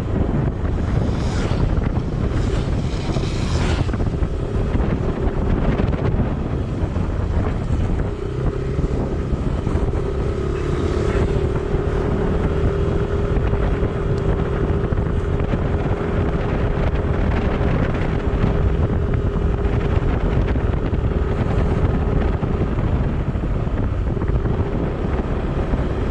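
Wind buffeting the microphone while riding, a dense rumbling rush, with a steady low hum that comes in about eight seconds in and fades out near the end.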